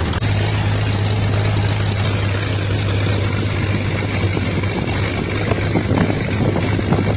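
An engine running steadily, with a constant low hum over broad rushing noise.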